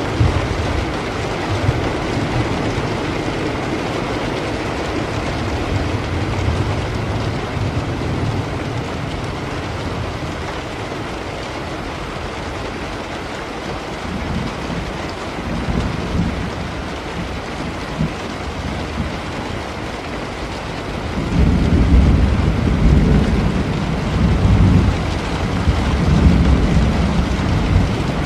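Steady rain falling, with rumbles of thunder underneath that grow into long, loud rolling rumbles about three-quarters of the way through.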